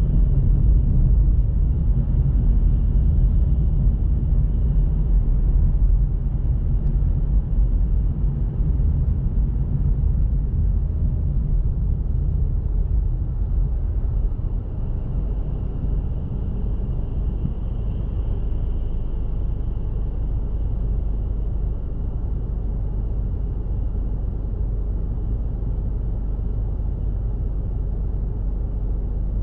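Steady low rumble of a car driving: engine and tyre noise with most of the sound in the deep bass. It eases slightly about six seconds in.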